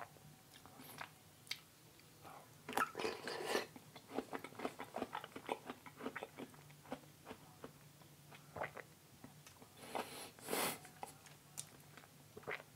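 Close-up mouth sounds of a man chewing raw aloe vera gel, which is slimy: irregular wet clicks and smacks.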